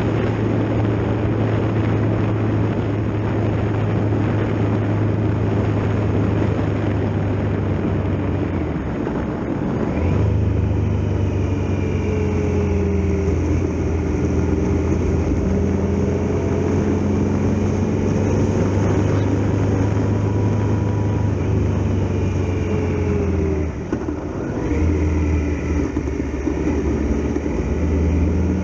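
Triumph Tiger Explorer XRx's 1215 cc three-cylinder engine running steadily while riding, with a steady rush of wind and road noise. The engine note drops and picks up again twice, near ten seconds and again near twenty-four seconds, like gear changes or easing off the throttle.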